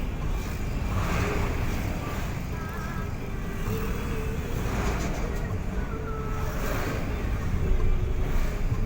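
Steady low rumble of a road vehicle on the move: engine and tyre noise.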